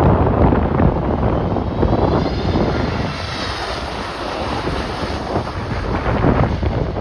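Strong gusting wind buffeting the microphone, with a jet airliner's engines heard through it and a faint engine whine that rises and falls in the middle.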